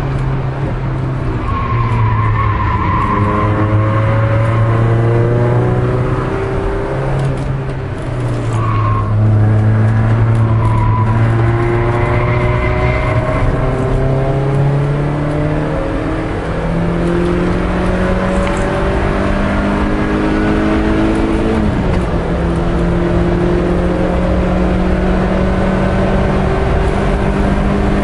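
In-car sound of a Peugeot 306 S16's 2.0-litre 16-valve four-cylinder engine pulling hard on track, its pitch rising in long pulls through the revs, with an upshift drop about 22 seconds in. Brief tyre squeals come through the corner in the first half.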